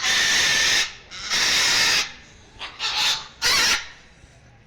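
A parrot squawking harshly: four loud rasping screeches, the first two long and the last two shorter.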